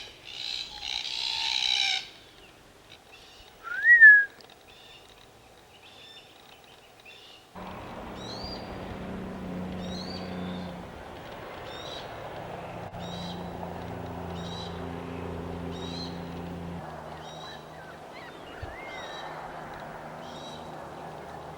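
Birds calling: a harsh screech in the first two seconds and a loud rising-and-falling call about four seconds in. From about seven seconds, a steady low layered sound sets in under high chirps repeating about once a second.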